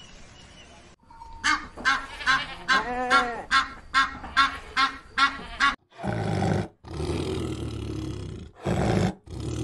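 A bird giving a rapid series of short honking calls, about two a second, followed by three long, low, rough roars from a large animal.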